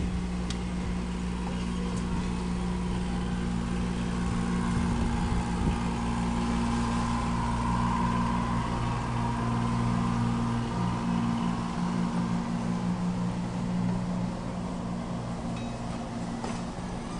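Train cars rolling slowly past on the rails: a steady low drone under wheel-and-rail noise, with a faint metallic ringing that swells and fades in the middle.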